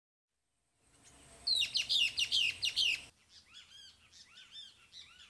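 Wild birds calling. First comes a quick run of about eight loud chirps, each sweeping down in pitch, about five a second. Then, after an abrupt change, softer short arched chirps continue.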